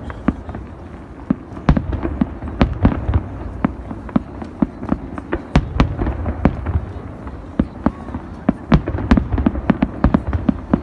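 A fireworks display with many shells bursting in quick, irregular succession: sharp bangs and crackles over a continuous low rumble of the launches and bursts.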